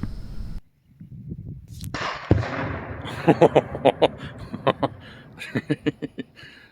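About 2.5 pounds of Tannerite exploding target detonating about two seconds in: a sudden blast with a long fading tail. A run of short, loud bursts follows for several seconds and is the loudest part.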